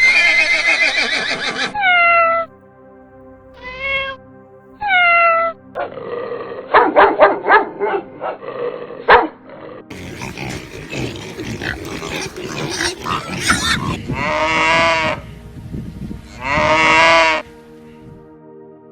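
A run of different animal calls cut one after another: a pitched call fading out, three short falling calls, a stretch of rapid noisy calling, then two long pitched calls; soft music with steady tones takes over near the end.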